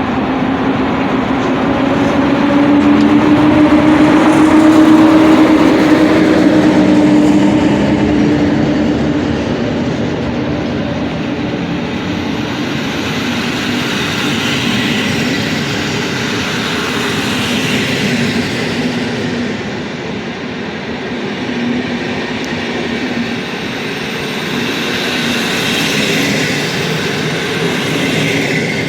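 A train passing on the rails, loudest about five seconds in, with a steady low hum over the running noise. After that come long washes of wheel and rail hiss.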